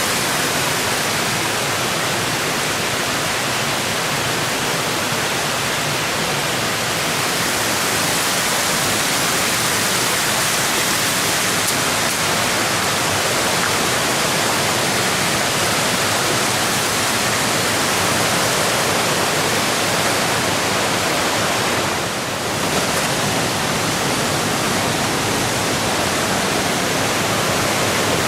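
Mountain stream water rushing in a steady, loud roar, dipping briefly about two-thirds of the way through.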